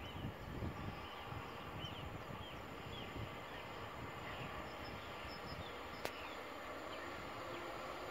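Small birds chirping in short repeated calls over a low, uneven outdoor rumble, with one sharp click about six seconds in.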